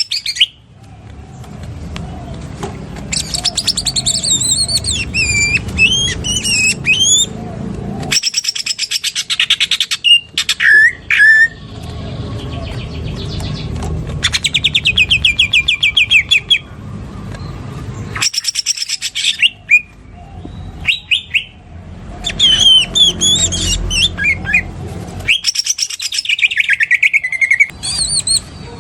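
Cucak ijo (green leafbird) singing loudly in repeated bouts. It mixes high whistled glides with long, rapid chattering trills copied from a lovebird's 'ngekek', and each bout breaks off abruptly before the next.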